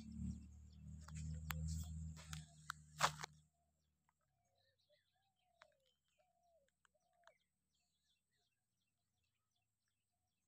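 A low rumble with several sharp clicks for the first three seconds or so, then it drops away suddenly to faint bird calls: short chirps that slide down in pitch, trailing off after about seven seconds.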